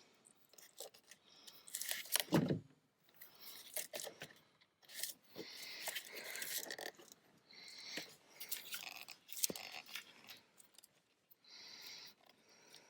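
Irregular metal clicks, scrapes and rustling of hands working a fuel injector and its retaining clip into the fuel rail of a Chevy 5.3 V8, with a louder knock about two seconds in.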